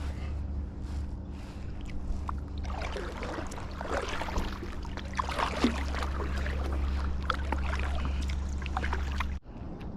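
Paddling a Tucktec BOTO folding kayak: regular paddle strokes, then splashing and water running against the hull, over a steady low hum. It cuts off sharply near the end.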